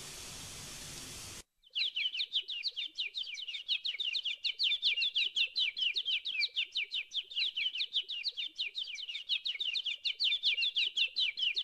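A steady hiss cuts off suddenly about a second and a half in. After a moment's pause, a bird starts chirping in a long, unbroken run of quick, high, downward-sweeping notes, many to the second.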